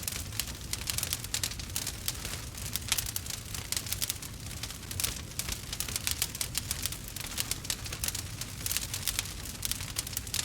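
Burning wood fire crackling and popping: a dense, continuous stream of small sharp pops over a steady low rumble.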